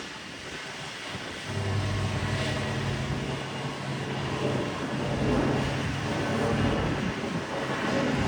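Jet engines of a Mitsubishi CRJ-700 regional jet at takeoff power, a steady rushing noise with a low hum that grows louder about a second and a half in.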